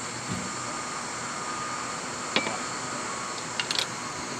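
A few sharp clinks, like glass or small utensils knocking together: one about two and a half seconds in, then a quick cluster of three or four near the end, over a steady background hiss.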